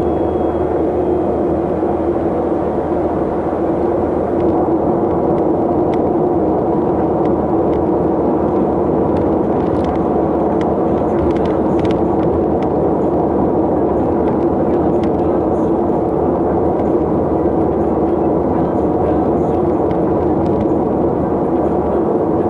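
A vehicle running steadily on the move: a constant engine and road drone with a steady low hum.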